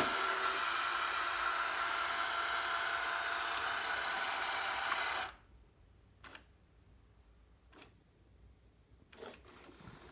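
Roomba 980 robot vacuum running with a steady mechanical whir, which cuts off suddenly about five seconds in; a few faint clicks follow.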